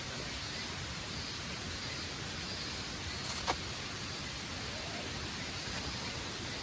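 Steady even hiss of outdoor background noise, with one sharp click about three and a half seconds in.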